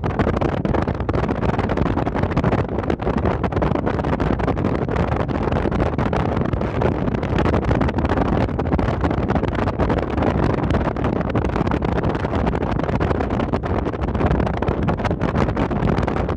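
Steady rumbling noise aboard a car ferry getting under way: engine and water wash, with wind buffeting the microphone.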